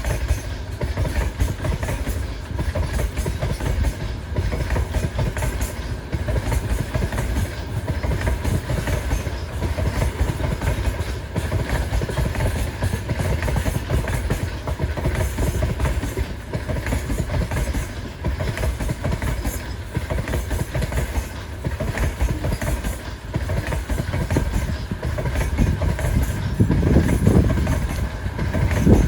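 Train wagons rolling past close by, a steady heavy rumble with the wheels clattering over the rails; it grows louder near the end.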